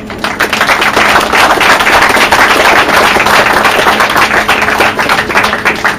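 Audience applauding: many hands clapping densely together, starting suddenly and loud throughout.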